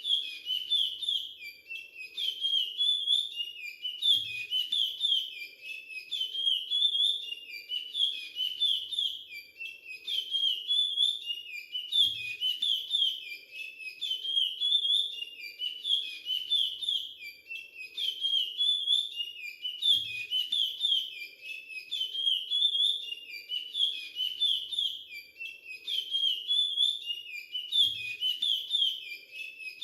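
Young male chestnut-bellied seed finch (curió) singing the Timbira 'virado clássico' dialect song from Maranhão. It repeats the same whistled phrase over and over, about one phrase every two seconds.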